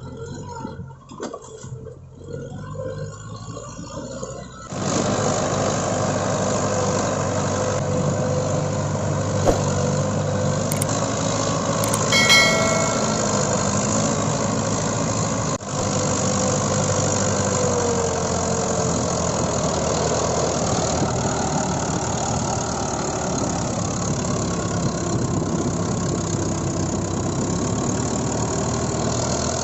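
Mahindra 575 DI tractor's four-cylinder diesel engine running steadily, rising suddenly to full loudness about five seconds in. A brief higher-pitched tone sounds over it near the middle.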